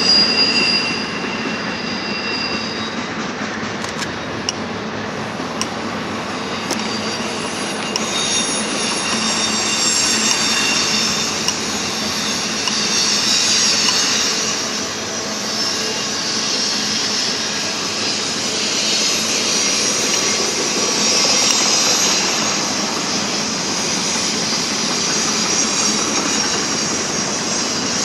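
Double-stack container freight train rolling across a steel trestle. Its wheels squeal with high ringing tones in the first couple of seconds, then give way to a steady rumble and hiss of wheels on rail that goes on as the cars pass.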